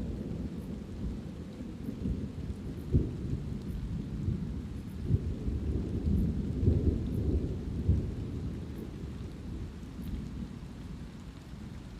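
Rolling thunder rumbling over steady light rain, with a few sharper cracks in the rumble about a third of the way in and again around the middle, then dying away toward the end.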